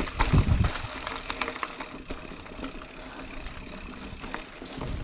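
Specialized Chisel hardtail mountain bike riding a dirt trail, its frame and parts rattling and clicking over bumps. Heavy low buffeting thumps on the action-camera microphone come in the first moment and again near the end.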